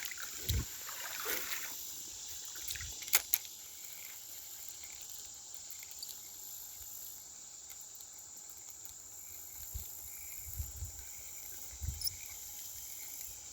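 Outdoor insect chorus: a steady high buzz with faint chirps repeating about once a second. A couple of sharp clicks come about three seconds in, and a few soft low thuds follow later.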